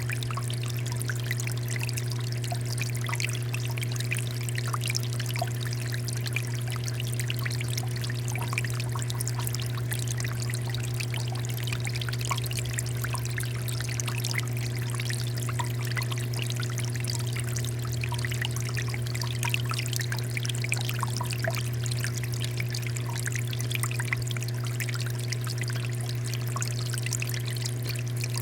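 Water fountain running, a continuous pouring and splashing with many small droplet patters, over a steady low hum.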